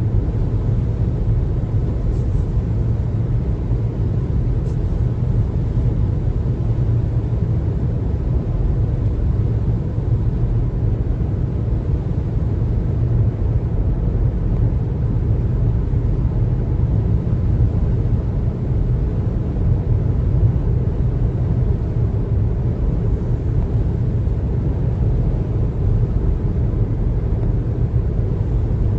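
Steady low road and tyre rumble of a car driving at an even speed.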